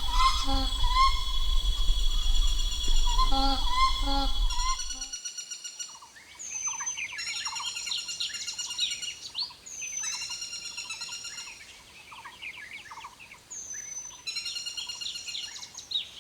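Forest night chorus: a steady high insect drone over a low rumble, with scattered bird calls, cuts off sharply about five seconds in. After that come bouts of rapid bird calls every few seconds, with a short whistled note between the bouts.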